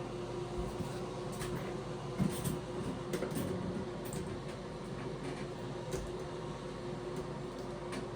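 Bathroom exhaust fan running with a steady hum, with a few light knocks and rustles about two to three seconds in.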